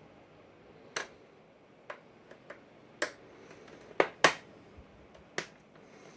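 Irregular sharp clicks and taps of a slot screwdriver working screws in a plastic telephone housing, about eight in all, the loudest pair about four seconds in.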